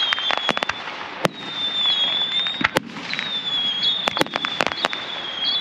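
Fireworks going off: sharp bangs and crackling reports, a quick run of them just after the start, single bangs in the middle and another cluster near the end, with a high wavering whistle underneath.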